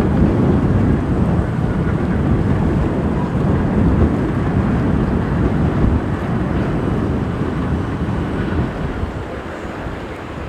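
Roar of an Airbus A350-900's twin Rolls-Royce Trent XWB turbofans at takeoff power, a deep steady rumble that fades somewhat near the end, mixed with strong wind buffeting the microphone.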